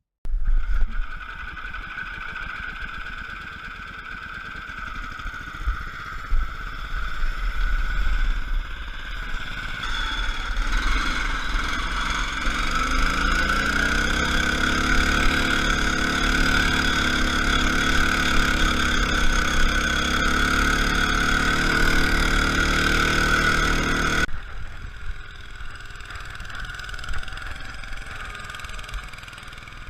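Lawn tractor's small engine running, its pitch climbing about twelve seconds in and then holding steady. About twenty-four seconds in the sound drops abruptly to a quieter engine running.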